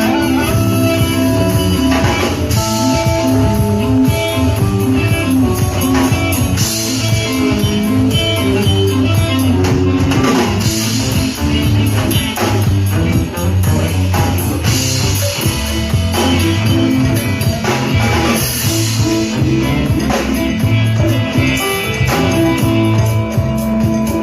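Live band playing with electric guitar, drums and tambourine, a steady beat over sustained bass notes.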